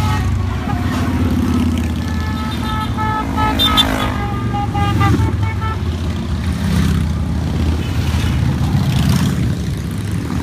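A stream of motorcycles riding past with a continuous engine rumble. Several horns toot over it for a few seconds in the middle.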